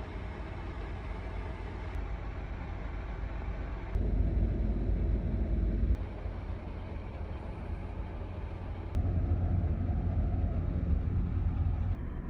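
Ferry at sea: a steady low engine rumble with a wash of wind and water noise, heard in short clips that change level every two to three seconds.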